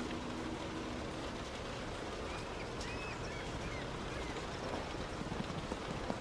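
Steady noise of heavy rain and car tyres on a wet road while driving, with a few light knocks near the end.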